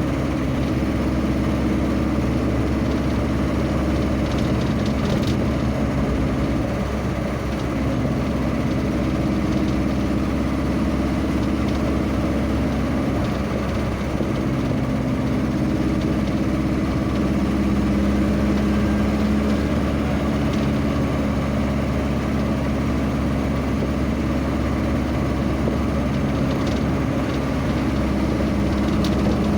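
A vehicle's engine running steadily while on the road, its pitch shifting slightly a few times.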